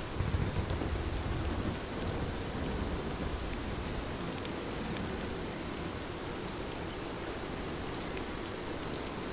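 Heavy rain falling steadily, with scattered drops ticking, and a low rumble swelling through the first couple of seconds.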